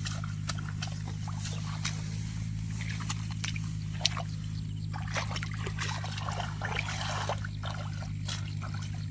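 Splashing and sloshing in shallow muddy water as a fish is grabbed by hand, many short irregular splashes over a steady low hum.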